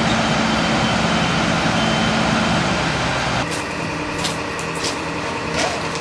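Steady engine-like running noise with a low hum, which changes abruptly about three and a half seconds in.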